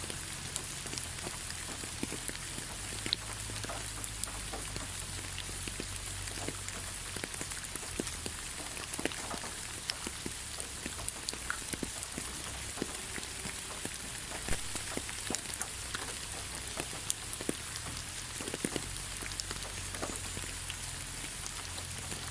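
Steady rain falling, with many separate drops pattering and ticking close by over a constant hiss and a low rumble.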